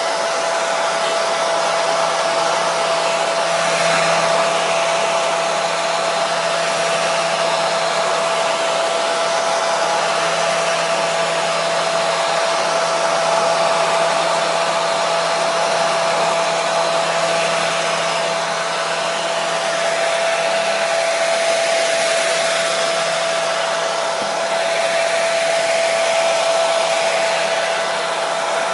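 Hair dryer running steadily: an even rush of blown air with a constant motor whine. The level swells and dips slightly now and then.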